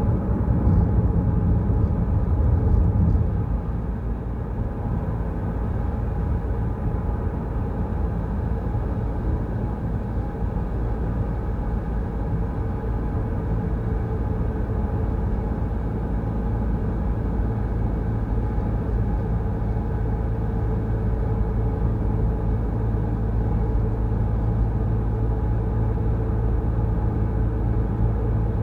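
Steady low rumble of a car driving, a Peugeot Rifter's engine and tyres on the road, slightly louder for the first few seconds and then even.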